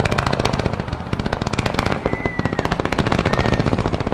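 Fireworks going off in a fast, unbroken run of sharp cracks, many a second, like machine-gun fire.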